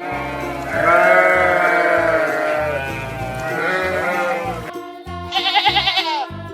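Bleating calls from a sheep or goat. Two drawn-out bleats come first, then a fast, quavering higher bleat about five seconds in, with another starting near the end. Background music with a steady beat plays throughout.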